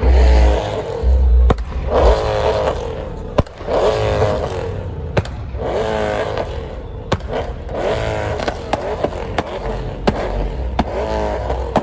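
Car engines revving over and over in short bursts, about once a second, with sharp pops scattered between the revs.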